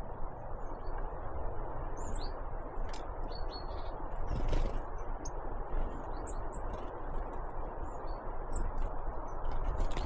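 Great tits and blue tits giving short, high chirps and calls, scattered and overlapping, over a steady low background rush. A few sharp clicks are heard, and there is a brief rushing noise about four and a half seconds in.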